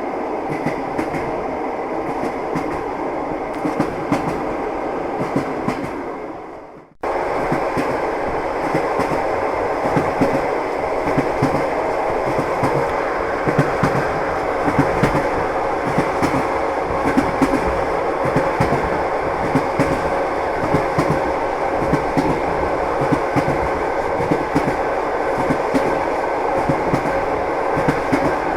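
Train wheels clattering over the rails with a steady rumble and a run of uneven clicks. About seven seconds in the sound fades away and then cuts back in abruptly, like a join in a looped recording.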